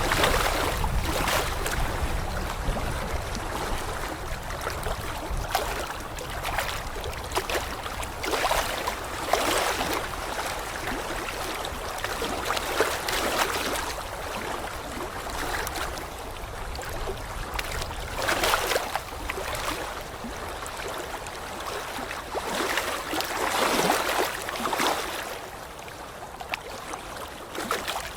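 Water washing in uneven surges every few seconds, like waves or fast-flowing water, a steady rushing hiss with no distinct tones.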